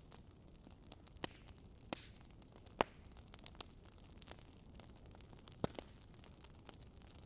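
Burning firewood crackling faintly, with scattered sharp pops over a soft steady hiss; the loudest pop comes a little under three seconds in.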